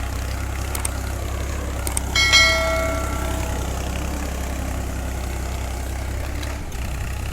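Powertrac 434 tractor's three-cylinder diesel engine running steadily. About two seconds in, a single metallic clang rings out and dies away over about a second and a half.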